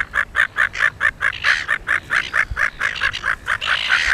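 Silver gull giving a rapid, rhythmic run of short calls, about four a second, with louder, harsher calls breaking in about a second and a half in and again near the end; the call of a male gull during courtship and a mounting attempt.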